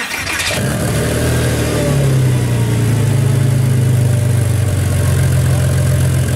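A car engine catching with a burst of noise, then running steadily with a deep, even note that eases slightly down in pitch after about two seconds.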